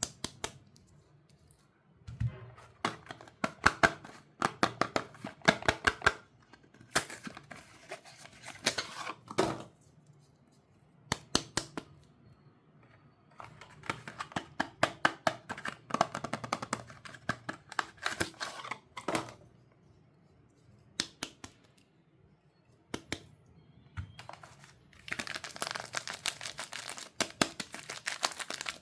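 Soap wrappers being unwrapped by hand: bursts of crinkling and tearing packaging, a few seconds each, with short pauses between.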